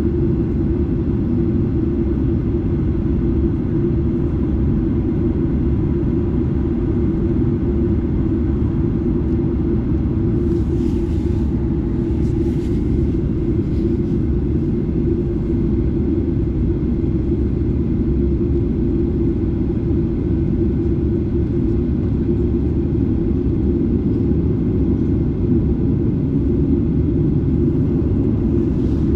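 Steady, deep engine and airflow noise inside the cabin of a Boeing 737-8, from a seat near its CFM LEAP-1B turbofan engines.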